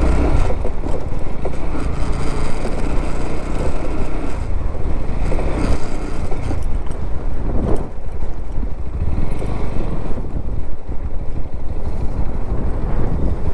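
Motorboat engine running steadily with a continuous low drone.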